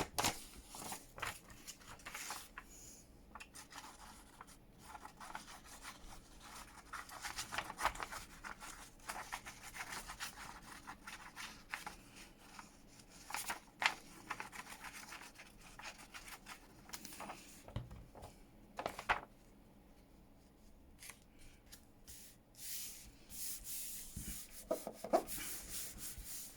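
Paper being handled and rubbed down onto a journal page, giving on-and-off scratchy rustling with a few sharp taps.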